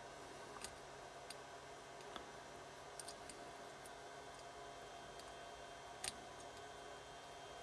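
Faint scattered clicks and light taps of small engine parts and tools being handled while nuts are fitted, about six in all with the sharpest near six seconds in, over a faint steady hum.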